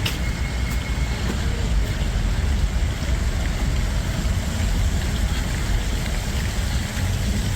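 Steady wet-street city ambience: a low rumble with an even hiss, and a few faint clicks.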